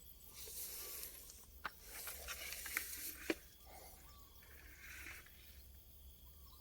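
Rustling and scraping with three sharp clicks, from hands working at a baited eel hook line caught in a burrow. A softer rustle follows near the end.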